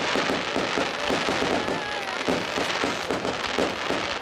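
Large professional fireworks display: a rapid, unbroken run of bangs and crackling from bursting aerial shells.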